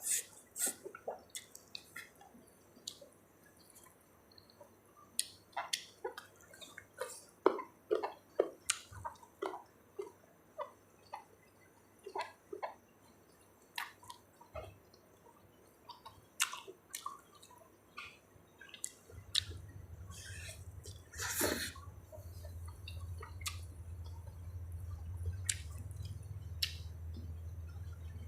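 Close-up mouth sounds of someone eating spicy seafood papaya salad: wet chewing and lip smacks at irregular intervals, one louder smack about three-quarters of the way through. A low steady hum starts about two-thirds of the way in.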